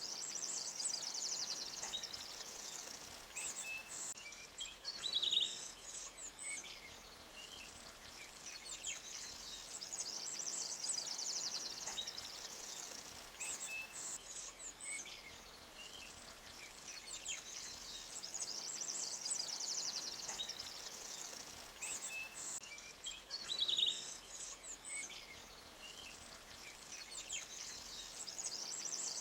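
Forest ambience: birds trilling in high-pitched bursts that come and go every several seconds, with sharper single chirps twice, over a faint steady hiss of a small stream.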